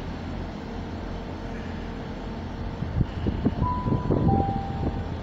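Steady low rumble of diesel trains, growing louder and more uneven about three seconds in as a train approaches. Around the middle a two-note horn sounds, a higher note then a lower one, each about half a second.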